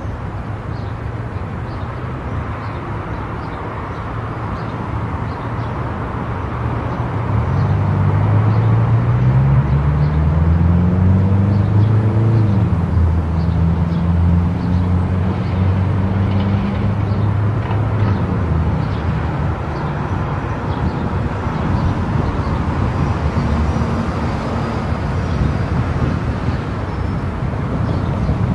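Car driving on a road: steady tyre and road noise with the engine note rising as it accelerates, starting about a quarter of the way in, then settling into a steadier, lower hum.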